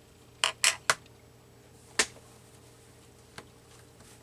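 Sharp taps and knocks of a rubber stamp on the craft table: three in quick succession about half a second in, another about two seconds in, and a faint one later.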